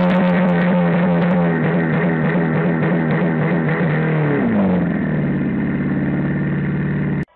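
A car engine held at high revs, then dropping in pitch about four and a half seconds in and holding lower, before cutting off suddenly near the end.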